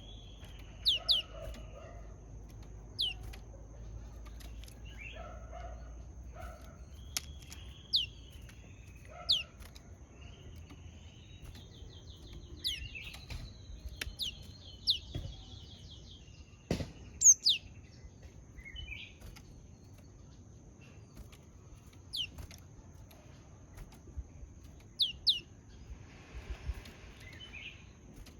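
Japanese tit giving short, sharp, high chip calls, often in quick pairs, at irregular intervals.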